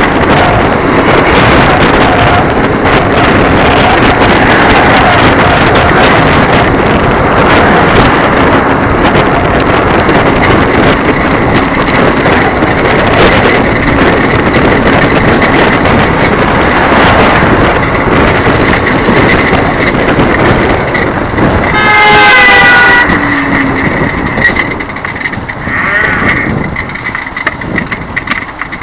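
Wind rushing over the microphone of a moving bicycle, with road noise. About three quarters of the way through, a vehicle horn honks once for about a second; after that the rushing drops off and grows quieter.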